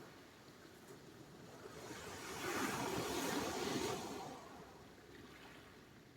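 Sea surf: a wave swells up about two seconds in, washes at its loudest for a second or so, then fades away.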